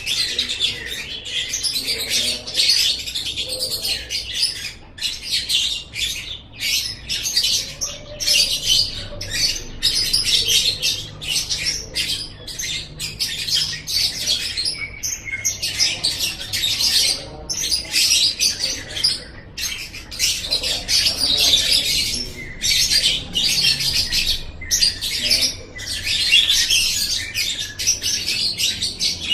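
Lovebird chattering and trilling almost without a break, in rapid high-pitched runs with only short pauses.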